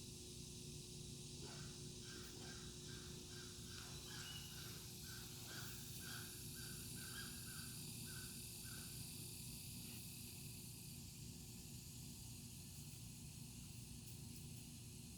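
Faint, steady outdoor hiss. From about a second and a half in, a bird calls a run of short, evenly spaced notes, about three a second, for around seven seconds, then stops.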